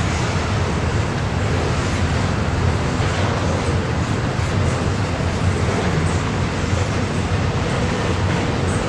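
Freight train rolling past, a steady rumble of the cars on the rails.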